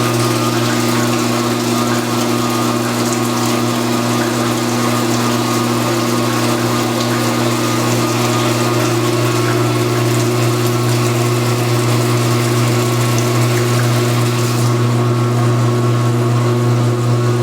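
Huebsch (Speed Queen) commercial washing machine running mid-cycle: a steady pump and motor hum with water rushing through it. The water hiss cuts back about fifteen seconds in while the hum carries on.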